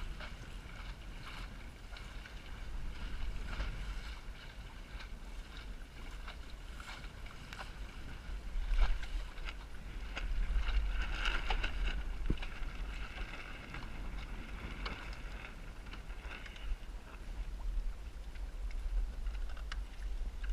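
Strong wind buffeting the microphone aboard a small Snark sailboat in high wind, with the hiss of water along the hull and a few light knocks. It gusts louder about nine seconds in and again for a few seconds after.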